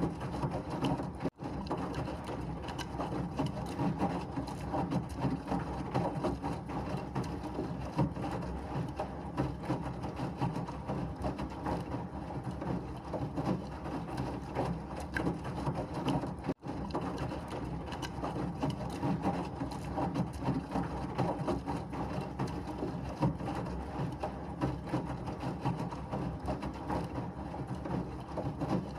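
Washing machine running steadily, a dense rumble with fine mechanical rattling. It cuts out for an instant twice, about a second and a half in and again just past the middle.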